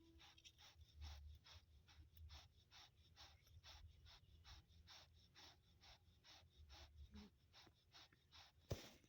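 Faint, rapid panting of a dog, an even run of about three to four short breaths a second, with a single sharp click near the end.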